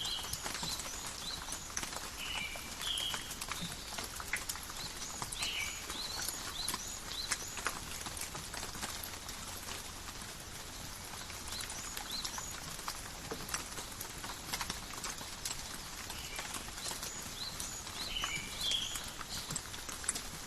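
Calm, steady forest rain: a hiss of falling rain with many individual drops ticking close by. Short bird chirps come a few times in the first five seconds and again near the end.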